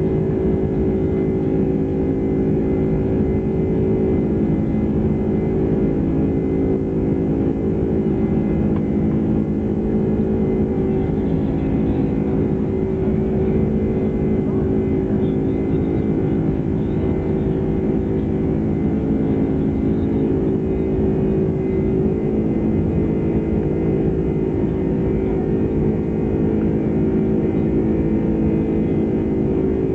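Cabin noise inside a Boeing 747-400's upper deck during the climb out: a steady engine and airflow drone with several constant humming tones.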